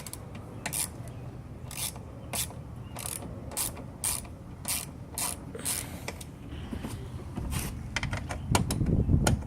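Ratchet wrench clicking in short strokes, about one every half second and quicker near the end, as bolts are worked loose to open the mower's drive housing.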